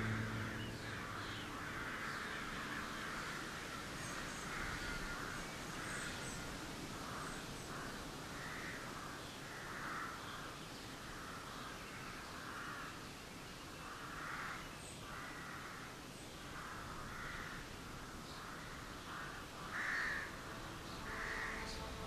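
Birds calling from a distance: a long run of short, harsh calls about once a second, with a few faint high chirps above them. One call near the end is louder.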